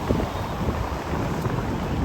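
Road traffic running past, a steady low rumble mixed with wind buffeting the microphone.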